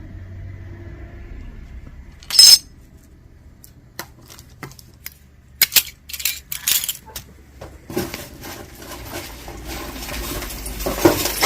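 Costume jewelry clinking and clattering as pieces are handled and dropped: one loud ringing clink about two seconds in, then a run of small clicks, then rustling as pieces are sorted.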